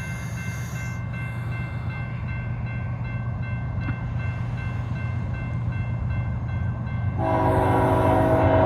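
Norfolk Southern freight locomotive's diesel rumble approaching a grade crossing, with the crossing signal's steady ringing above it. About seven seconds in the locomotive horn sounds, a loud chord of several notes held to the end, blown for the crossing.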